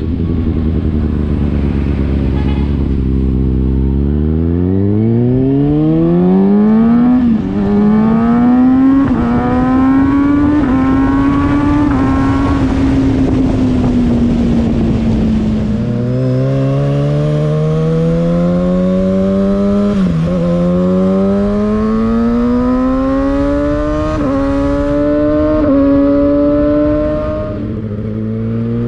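Kawasaki Ninja ZX6R inline-four engine and exhaust pulling hard through the gears. The revs climb steeply with a quick dip at each upshift, then hold and ease off. Near the middle they climb again through three more upshifts and fall away near the end.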